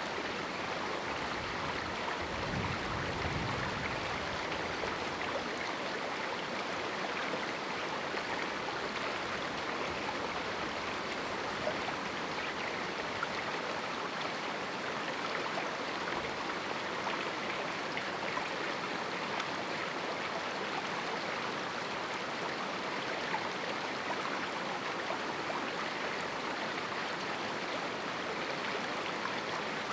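River water rushing steadily through a small canyon, a continuous even hiss of flowing water.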